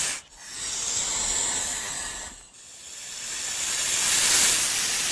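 Snake hissing: long drawn-out hisses that swell and fade, with short breaks between them.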